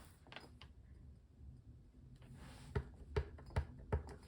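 Light clicks and taps of paper-crafting stamping tools being handled: a clear photopolymer stamp and an ink pad being used to ink the stamp. There are a couple of clicks near the start and four quick taps, about half a second apart, starting just under three seconds in.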